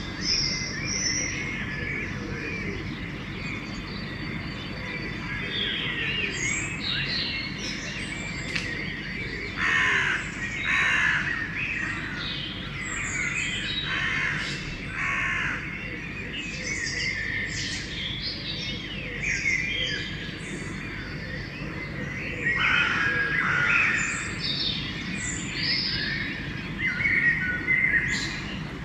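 Dawn chorus of many songbirds chirping and singing at once, with crows cawing loudly several times through it. A steady low rumble lies underneath.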